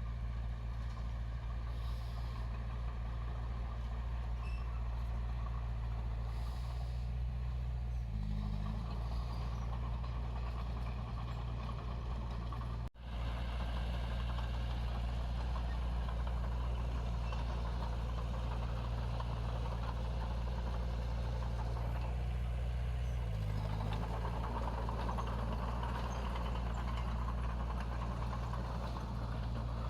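Heavy-equipment diesel engine running steadily under a low, even drone, with brief shifts in engine speed about 8 and 23 seconds in. The sound cuts out for an instant about 13 seconds in.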